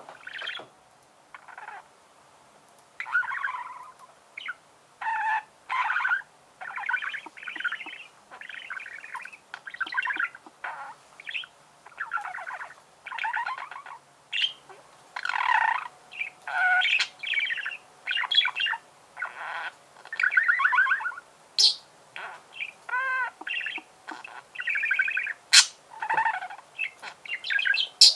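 Budgerigar warbling: a long, busy run of quick chirps, chatter and short whistled notes that starts about three seconds in, with a few sharp clicks mixed in.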